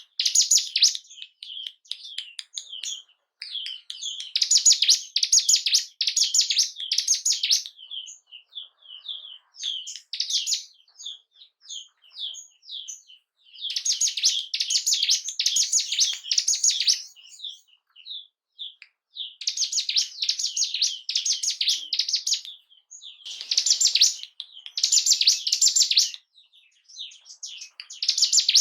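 Ciblek gunung singing: bursts of fast, repeated high chirps lasting a few seconds each, with scattered single notes between the bursts.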